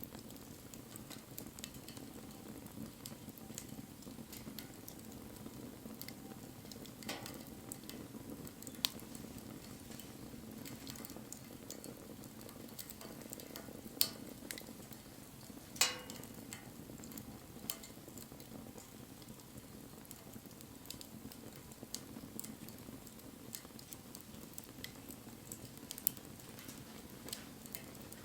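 Wood bonfire burning: a steady low rush of flames with frequent small crackles and a few louder sharp pops, the loudest about halfway through.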